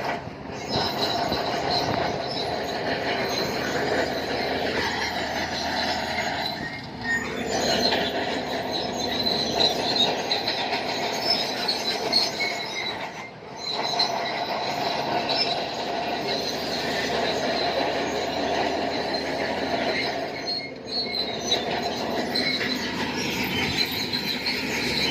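Shantui crawler bulldozer working, its steel tracks squealing and clanking over the engine's running note, with the pitch sliding down and back up a couple of times. The sound breaks off briefly three times.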